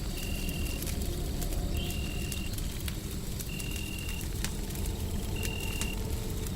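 Wood fire crackling with sharp irregular pops over a steady low rumble of white noise. A short, high, steady beep-like tone repeats about every second and a half.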